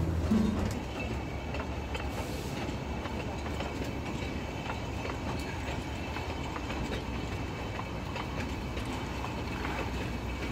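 Matheran narrow-gauge toy train running along the track, heard from a passenger coach window: steady noise of wheels on the rails. Background music cuts out in the first second.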